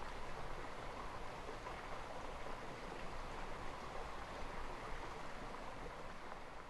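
Steady rushing outdoor ambience, an even noise with no distinct events, dipping slightly at the very end.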